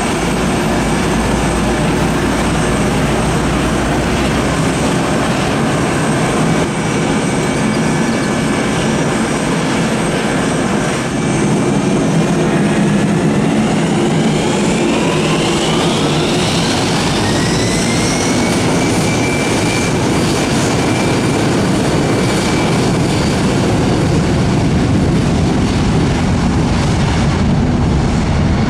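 Jet aircraft engines running loud and steady, then spooling up with a rising whine about halfway through and holding at the higher pitch, as thrust is brought up for takeoff.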